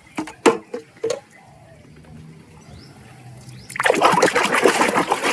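A few light knocks and clicks of a plastic toy being handled, then, from nearly four seconds in, loud splashing water as a muddy plastic toy animal is washed.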